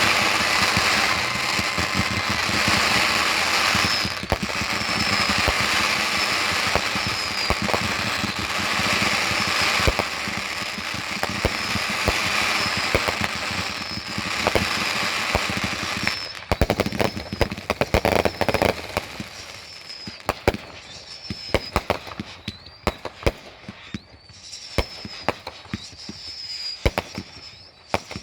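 Consumer fireworks going off: a dense, continuous crackle full of sharp pops for the first half or so, thinning about halfway through to scattered sharp pops and bangs.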